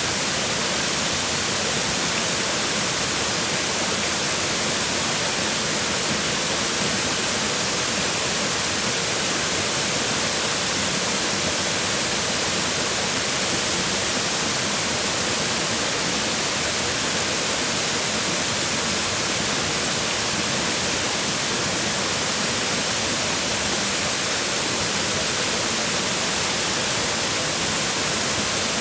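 Waterfall: water falling and splashing on rocks, a steady, unbroken rushing hiss.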